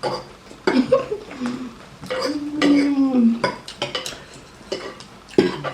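Cutlery and dishes clinking in a run of sharp knocks as people eat from their plates, with a short stretch of voice about two to three seconds in.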